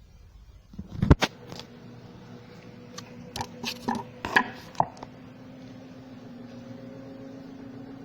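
A few sharp clicks and knocks, clustered about a second in and again between three and five seconds, then a steady low machine hum.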